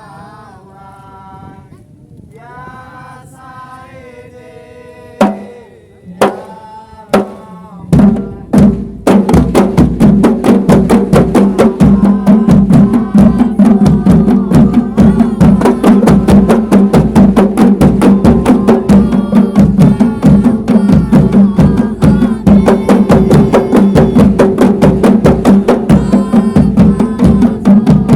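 Voices singing a chant, then kompang frame drums struck by hand: a handful of single strokes about a second apart, and at about nine seconds the whole troupe breaks into fast, continuous interlocking drumming.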